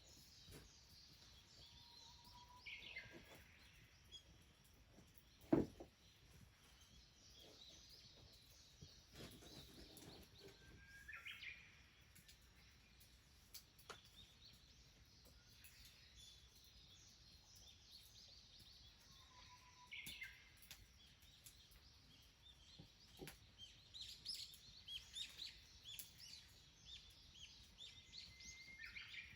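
Faint wild birds calling now and then over quiet countryside ambience: a few short downward-sweeping calls, then a busier run of chirping near the end. A single dull thump comes about six seconds in.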